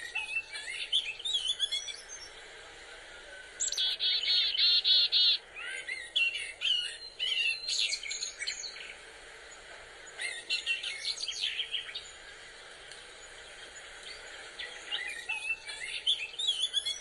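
Small birds chirping and calling in short bursts, with a fast, even trill about four seconds in.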